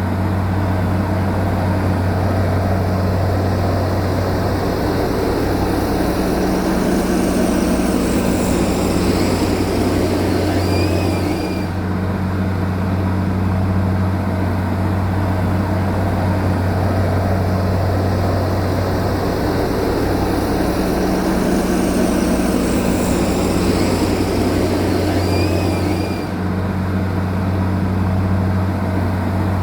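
Heavy diesel earth-moving machine engine running with a steady low drone. The same sound pattern repeats about every 14 to 15 seconds, as in a looped recording, each time with a short high chirp and a brief dip.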